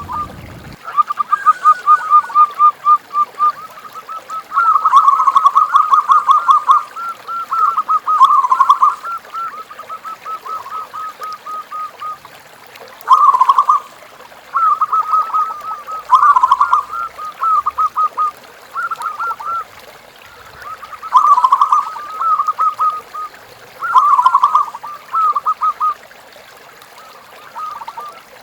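Zebra doves (perkutut) cooing, a rapid rolling run of coos. The first half is an almost unbroken stretch of calling, and the second half brings short bouts of a second or so every couple of seconds.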